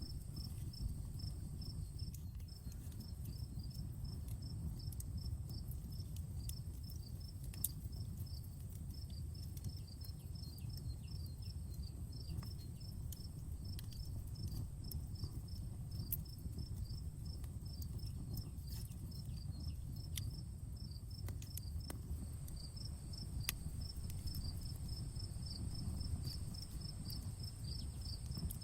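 Outdoor campfire burning with a low steady rumble and a few sharp crackles and pops, under crickets chirping in a rapid, even series with a short break near the end, and a steady high hiss.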